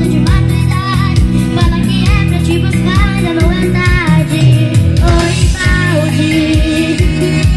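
Band music with a steady fast beat and bass under a bending melodic lead line.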